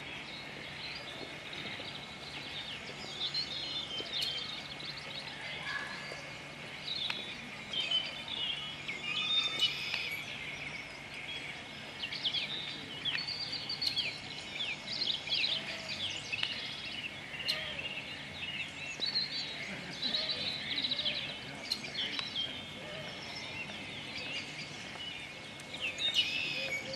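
Small birds chirping and twittering busily, many short high calls overlapping, over steady outdoor background noise.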